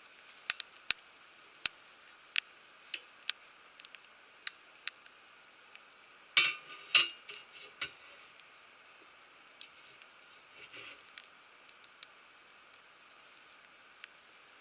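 Wood fire crackling: sharp, irregular pops over a faint steady hiss, with a brief burst of louder cracks and knocks about six to eight seconds in.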